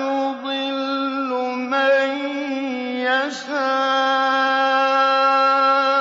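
A male voice reciting the Quran in a slow, melodic mujawwad style in maqam nahawand. The notes are long and held, with short ornamented turns in pitch at about the start and again around three seconds in.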